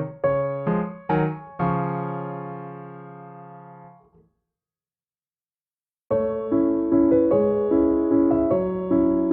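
Background piano music: a piece ends on a held chord that fades out about four seconds in, then after two seconds of silence another piano piece starts with repeated chords.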